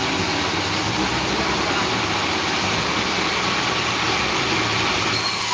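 Sawmill machinery engine running steadily with a low hum.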